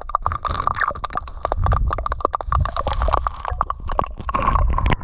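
Water sloshing and splashing close to the microphone, with rapid irregular clicks over a low rumble.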